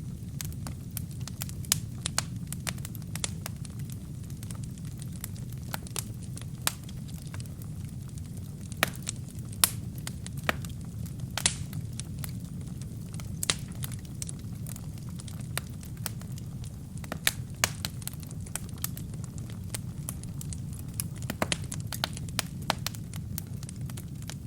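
Wood fire with burning kindling crackling: a steady low rumble of flames with many sharp, irregular pops and snaps throughout.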